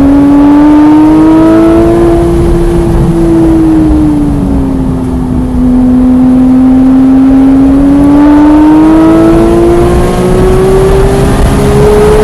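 Porsche 991.1 GT3's naturally aspirated flat-six pulling hard on track, heard from inside the car over heavy road noise. The engine note rises, eases back and drops in pitch around the middle, then climbs steadily through a long pull in gear.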